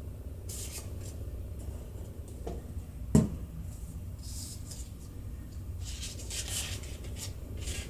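Paper rustling in short bursts as cut-out paper leaves are handled and pressed onto a paper plate, with one sharp knock about three seconds in, over a low steady hum.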